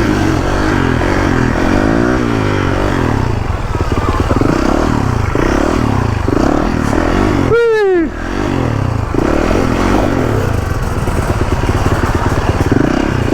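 Supermoto motorcycle engine running under the rider, its pitch rising and falling repeatedly as the throttle is worked on and off. A rider's shout of "whee" falls in pitch about eight seconds in.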